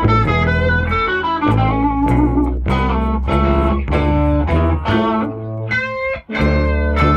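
Instrumental blues played by a band, led by electric guitar playing a melody over a steady bass line. The band drops out briefly just after six seconds, then comes back in.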